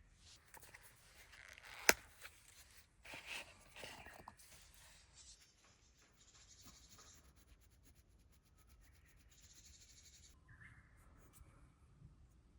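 Faint rustling and rubbing of gear being handled, with one sharp click about two seconds in.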